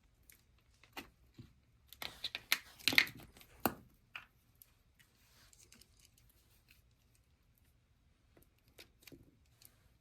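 Clicks and rustling from hands handling a run capacitor and multimeter test leads while it is hooked up for a microfarad reading. The busiest cluster of clicks comes about two to four seconds in, with a few more near the end.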